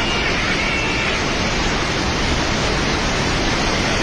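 Swollen flood river rushing with a steady, loud, unbroken noise.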